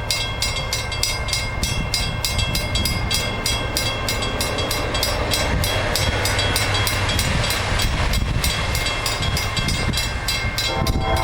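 Amtrak passenger train passing close by at speed: a steady rumble with rapid, evenly spaced wheel clicks over the rail joints. A horn begins to sound near the end.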